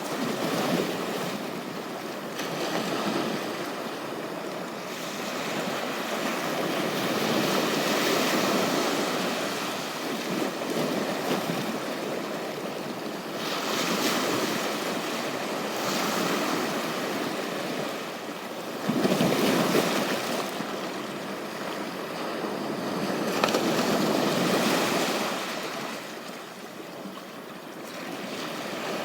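Ocean waves breaking and washing up on a beach, swelling and ebbing every few seconds, with a stronger surge about two-thirds of the way through. Wind buffets the microphone.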